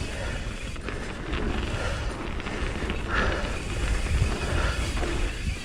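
Mountain bike riding fast down a dirt trail: tyres rolling and rumbling over the dirt, with wind buffeting the camera microphone and a few short knocks and rattles from the bike.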